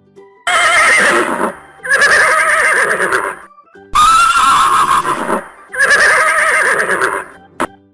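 A horse whinnying four times, each call about a second and a half long with a quavering pitch, over a soft children's tune.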